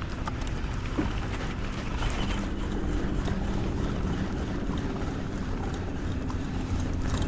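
Low, steady motor rumble with wind noise on the microphone.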